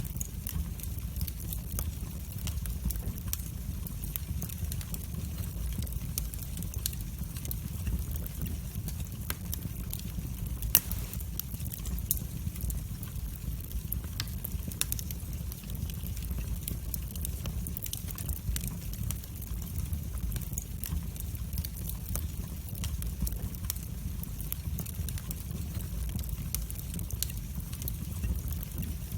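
Fire burning in a fireplace: a steady low rumble of flames with many small crackles and pops, one louder pop about eleven seconds in.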